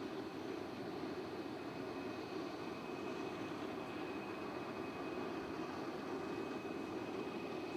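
Jet airliner engine noise, a steady rumbling hiss with a thin, steady high whine over it.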